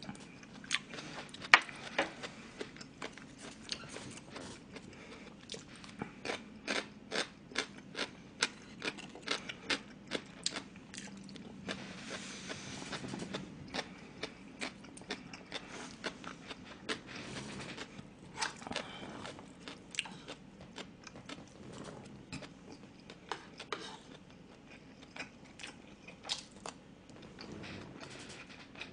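Close-miked chewing and mouth sounds of a man eating a spoonful of Chinese food: a run of wet smacks and clicks, often about two a second, with a longer noisy stretch about twelve seconds in.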